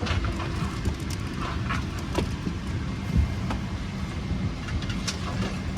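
Boeing 777-300 cabin ambience while boarding: a steady low rumble with a constant hum from the air-conditioning, broken by a few short clicks and knocks.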